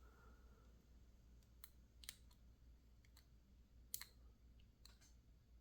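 A few faint, sharp metallic clicks, spaced irregularly, from lock picks prying at the core of an Opnus XZ dimple lock during disassembly.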